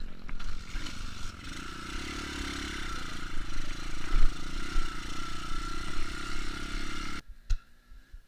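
Trail motorcycle engine running and revving steadily, with some clatter, then cutting off abruptly about seven seconds in, followed by a single knock.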